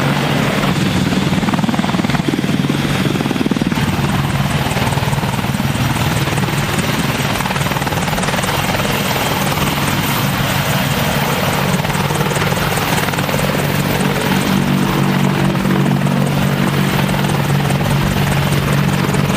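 AH-64 Apache attack helicopter running steadily, its rotor and turbine noise constant with a rapid even beat from the rotor.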